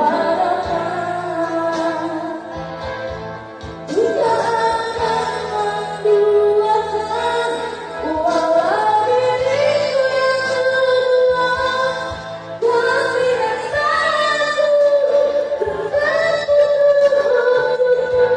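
A woman singing a slow melody over backing music, holding long notes in the second half.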